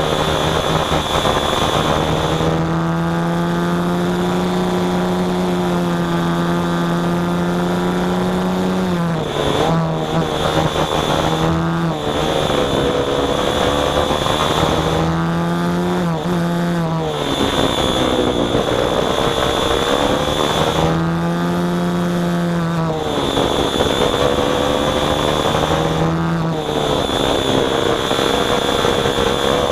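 Small engine running steadily, its pitch dipping and rising again every few seconds as the revs change.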